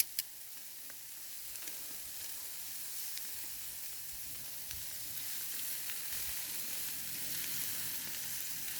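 Food sizzling on a grill over campfire coals, a steady even hiss, with two sharp clicks at the very start.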